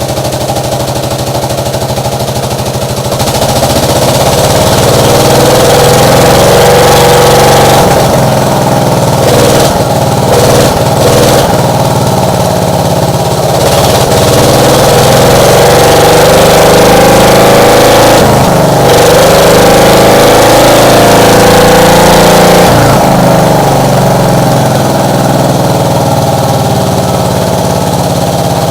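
Case 220 hydraulic-drive garden tractor's engine running on a cold start after sitting unused for three months, getting louder about three seconds in and revving up and down several times.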